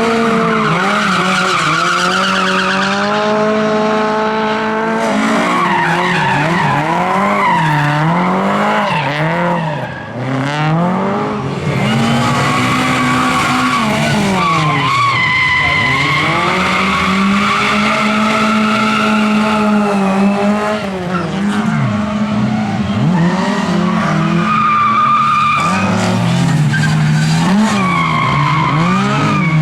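Lada racing car engines at high revs, the pitch climbing and dropping again and again as the cars accelerate, shift and lift off. At times more than one engine is heard at once.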